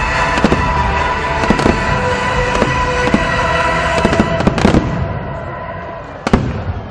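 Aerial fireworks bursting in a dense barrage of bangs and crackle, thinning out after about five seconds, with one last sharp bang near the end.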